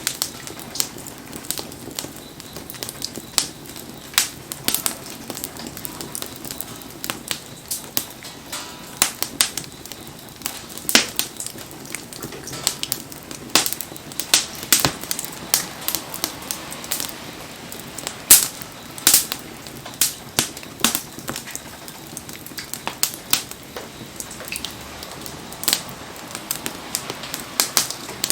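Wood campfire crackling and popping irregularly, sharp snaps over a steady hiss, with rain falling.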